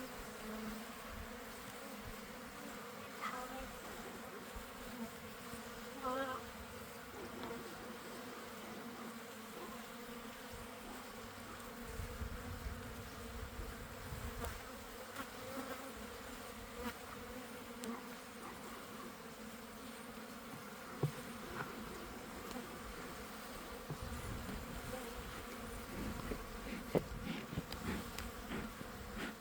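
Honeybees buzzing in a steady, many-voiced hum around an opened hive, stirred up by the inspection. A few light knocks come near the end.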